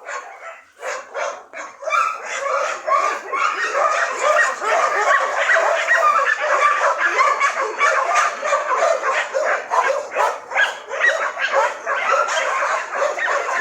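Dogs barking and yipping without pause, short high calls following one another closely.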